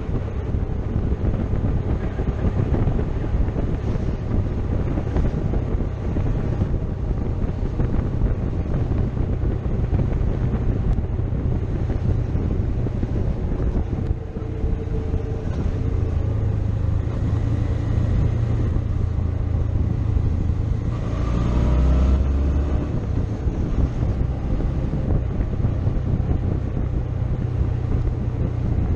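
Motorcycle engine running steadily on the move, with wind noise on the microphone. About three-quarters of the way through, the engine note gets louder and briefly shifts in pitch.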